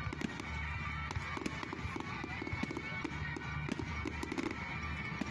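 Fireworks crackling and popping, many sharp cracks in quick succession, over music.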